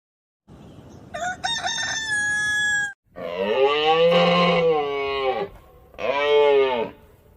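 An animal calling three times: a high, steady-pitched call, then a long call that rises and falls in pitch, then a shorter call that rises and falls.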